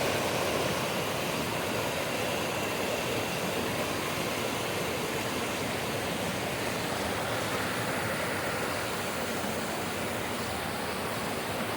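Steady rush of flowing water, a constant even roar with no breaks or swells.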